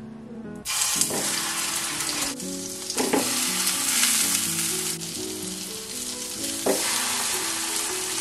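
Sausages sizzling in hot oil in a frying pan. The sizzle starts suddenly and loud about a second in as they go into the pan, then swells and eases a few times, over soft background music.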